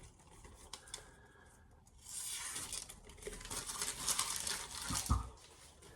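Paper towel being torn and crumpled, a dry rustling that lasts about three seconds, with a soft knock near the end.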